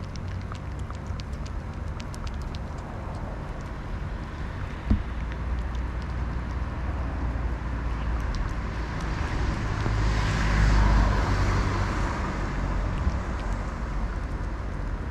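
Steady outdoor road-traffic rumble, swelling as a vehicle passes about ten seconds in, with a single thump about five seconds in.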